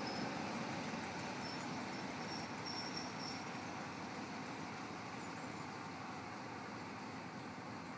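A train led away by a Class 47 diesel locomotive rolling off down the track, its rumble slowly fading as it recedes. Faint brief high-pitched squeals from the wheels come and go in the first few seconds.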